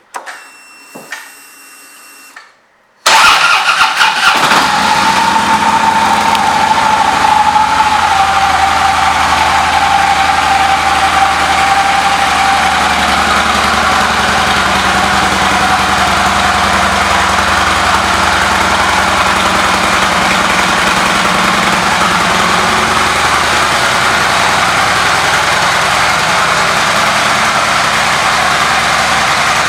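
Harley-Davidson Road King Classic's V-twin engine starting about three seconds in, then settling into a steady idle.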